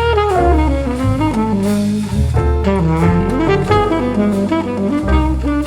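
Background jazz music: saxophone and brass carrying a melody over bass and drums, in the style of old big-band records.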